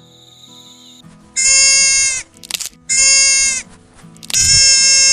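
Three long, high-pitched bleating calls, each about a second long and held at a steady pitch, over quiet background music.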